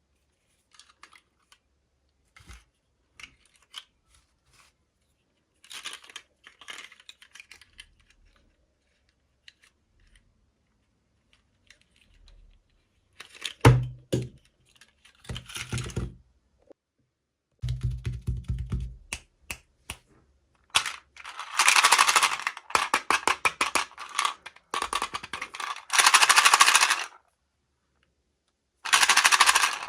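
Small toy packaging being handled and opened: scattered light clicks, a couple of dull knocks, then bursts of rapid crinkling and crackling of plastic packaging.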